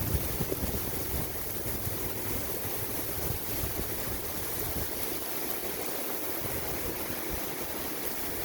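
Heavy rain pouring down steadily in a downpour, with some low wind rumble on the microphone in the first few seconds that eases off in the middle.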